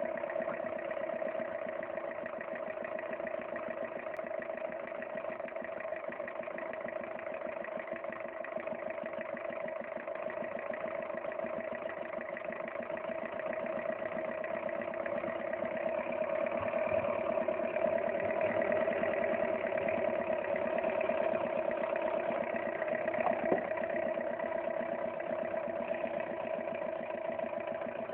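Home-built single-cylinder four-stroke spark-ignition engine with a rotary valve, running steadily on its first run. It gets a little louder for a few seconds past the middle.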